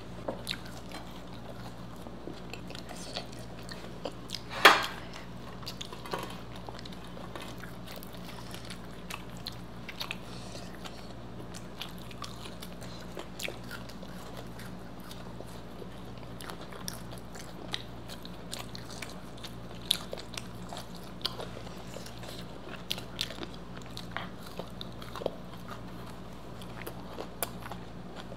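Close-miked biting and chewing of crisp fried food, with scattered small crunches and one much louder sharp sound about five seconds in, over a faint steady low hum.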